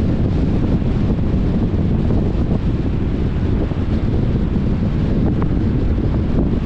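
Steady wind noise buffeting the microphone of a camera on a moving car, a loud low rumble with no break.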